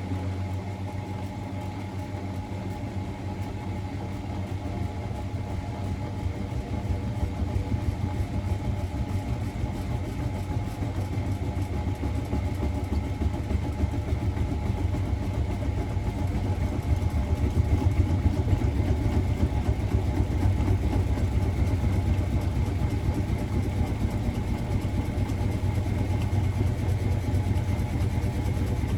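Miele Novotronic W921 washing machine running, a steady motor hum with a few held tones that slowly grows louder.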